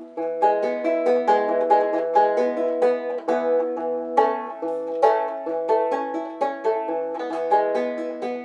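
Handmade five-string fretless gourd banjo with a goat-skin head and nylon-gut strings, played in open E tuning: a steady run of plucked notes, several a second, ringing over the lower strings.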